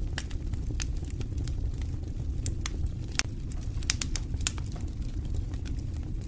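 Wood fire burning in a fireplace: irregular sharp crackles and pops over a steady low rumble of the flames, with a few louder pops about halfway through.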